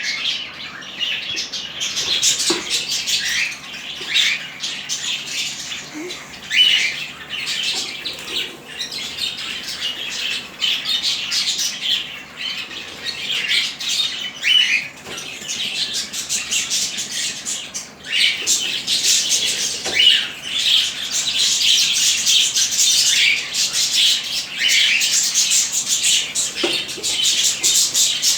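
Several lovebirds chattering without a break, a dense stream of short, high calls.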